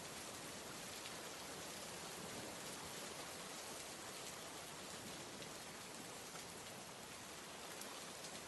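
Steady rain falling, an even hiss with faint scattered drop ticks and no change in level.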